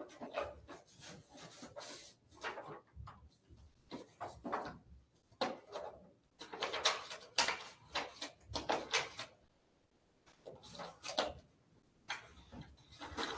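Paper rustling and shuffling in irregular bursts, as bid documents are opened and leafed through on a table, with a short pause about ten seconds in.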